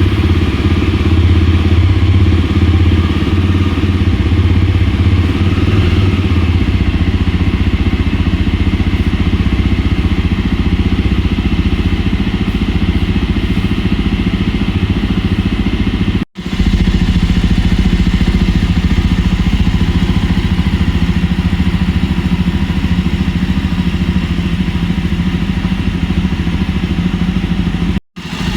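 Jawa 42 Bobber's 334 cc single-cylinder engine idling steadily through its twin exhausts just after starting. The sound drops out for an instant twice, about 16 seconds in and near the end.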